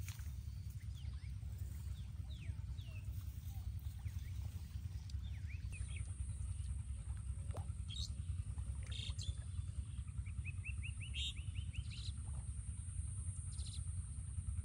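Birds chirping in short high calls over a steady low rumble, with a quick run of about eight short notes about ten seconds in.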